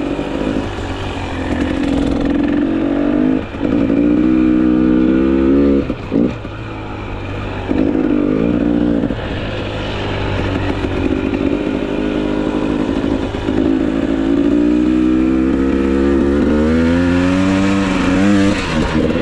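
GasGas EC300 two-stroke enduro motorcycle engine under hard riding. The pitch climbs as the throttle is held open, then drops sharply when it is shut off several times.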